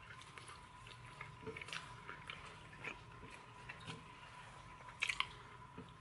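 A person chewing a mouthful of hamburger with ketchup, giving faint wet mouth clicks and smacks, with a louder cluster about five seconds in. A faint steady high tone runs underneath.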